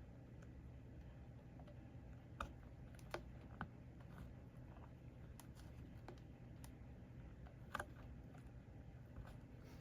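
Faint, scattered light clicks and taps of small hand tools working on a circuit board during desoldering, a few at uneven intervals, the sharpest about two and a half and eight seconds in, over a steady low hum.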